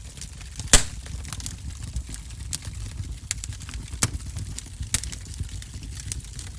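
Wood fire in a fireplace crackling: a steady low rumble of flames with scattered sharp pops and snaps, the loudest pop about three-quarters of a second in.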